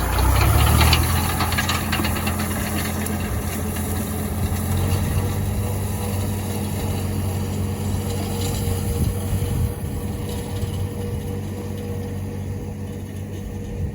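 Farm tractor engine running steadily as the tractor pulls away, its sound slowly fading.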